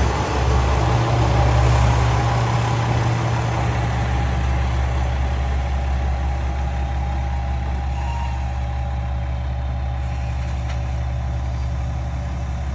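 Steady low rumble and hum of a train, slowly fading as it draws away.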